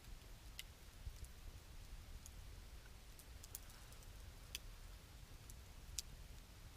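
Campfire of burning wood crackling faintly, with sharp, irregular pops about once a second over a low rumble.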